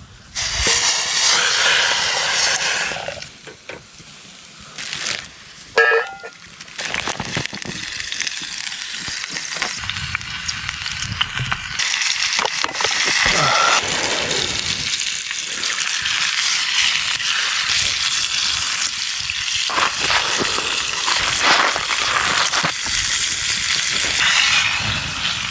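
Steak sizzling as it fries, a steady high hiss from about seven seconds in, after a louder burst of noise near the start.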